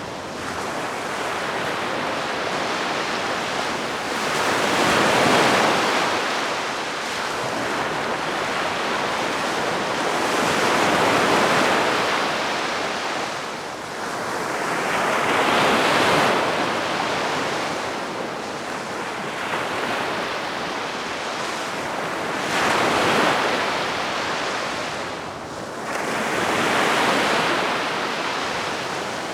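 Calm sea waves breaking gently and washing up the beach, one soft surge about every five or six seconds.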